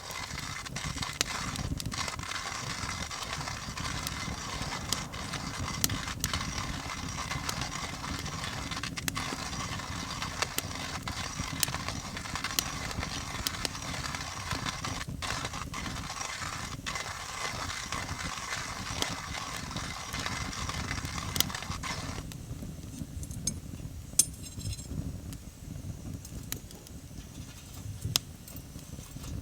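Coffee grinder grinding coffee beans with a steady gritty whirr that stops about 22 seconds in, with scattered sharp crackles from a wood fire throughout.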